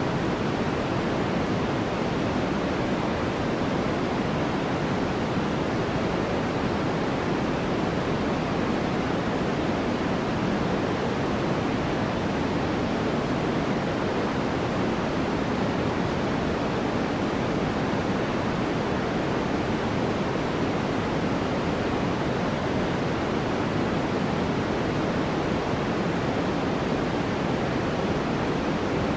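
Steady white noise for sleep: an even, unbroken hiss that never changes, weighted toward the low and middle range rather than bright.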